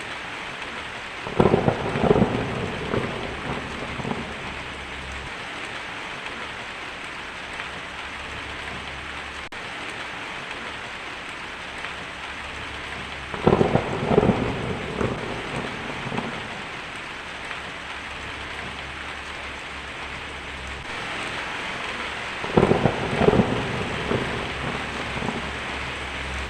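Steady heavy rain with three claps of thunder, each cracking sharply and then rumbling off over a few seconds: one near the start, one about halfway, and one near the end.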